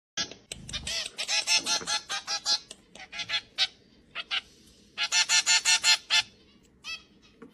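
Birds calling in rapid runs of short, honking calls, several a second, with two loud bursts about a second in and about five seconds in and scattered single calls between.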